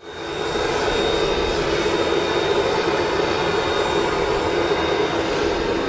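Jet aircraft engine running steadily: an even rushing noise with a thin high turbine whine over it. It fades in over the first half second.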